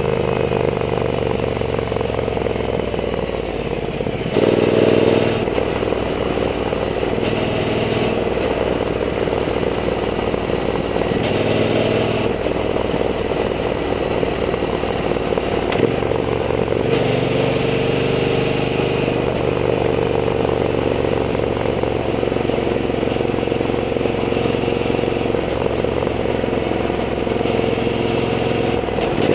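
Triumph Bonneville T120's 1200 cc parallel-twin engine running through a Zard aftermarket exhaust while the bike is ridden. The note is steady, and it swells briefly several times.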